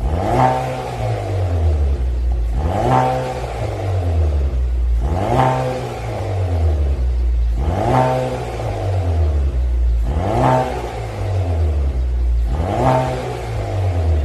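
Chevrolet Malibu 2.0's turbocharged four-cylinder engine, breathing through a custom variable-valve exhaust, revved in six blips about every two and a half seconds, each rising and then falling back to idle.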